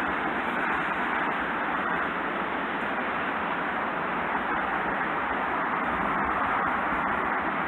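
Steady hiss of distant road traffic, even and unbroken with no single vehicle standing out.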